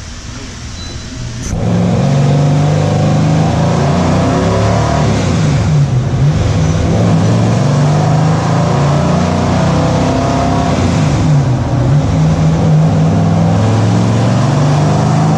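6.0-litre LS V8 with LS3 heads in a sandrail, revving hard through a wide-open-throttle chassis dyno pull. It is quieter for the first second and a half, then runs loud for the rest, with the pitch sweeping twice along the way.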